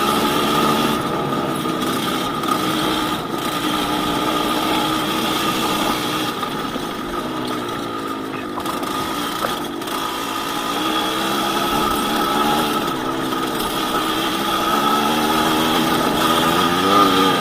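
Yamaha DT200WR's two-stroke single-cylinder engine running under way on a dirt forest road, its revs easing off through the middle and climbing again near the end.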